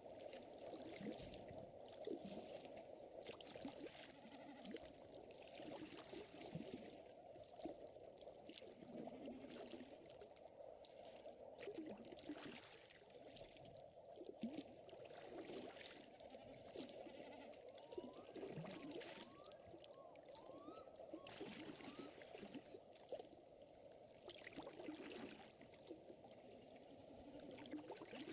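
Faint fire crackling with frequent small pops, over a steady low wash of water. A few short rising chirps come about two-thirds of the way through.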